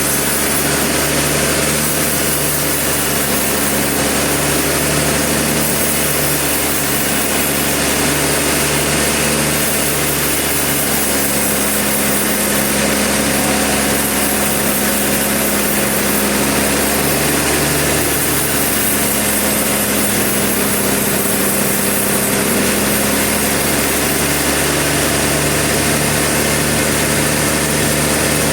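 Sawmill engine running steadily with an even, unbroken hum.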